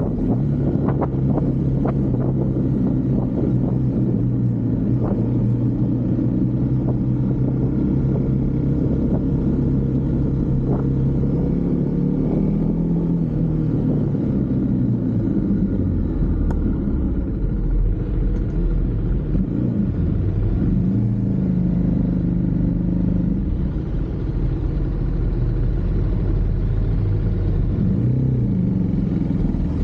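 Husqvarna Svartpilen 401's single-cylinder engine running under way. Its note holds steady for about the first twelve seconds, then rises and falls repeatedly as the bike is throttled and shifted. There are a few sharp ticks in the first five seconds.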